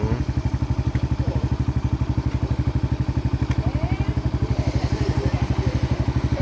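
Small engine idling steadily, with an even low beat of about ten pulses a second; faint voices of a crowd above it.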